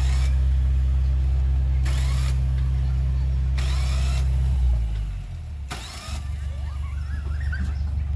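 Heavy diesel engine running steadily, then slowing and dropping away about five seconds in; a rougher, lower rumble picks up about a second later. Four short bursts of hiss come over it, roughly every one to two seconds.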